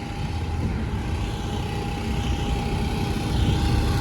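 Car engines running, a steady low rumble that grows a little louder toward the end, with a faint steady tone over it.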